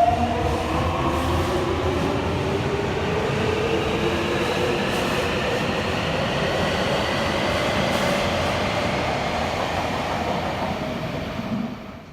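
Subway train running and accelerating, its traction motors giving several whining tones that rise slowly in pitch over a steady rumble of running noise. The sound drops away sharply near the end.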